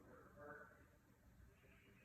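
Near silence: room tone with a faint voice about half a second in.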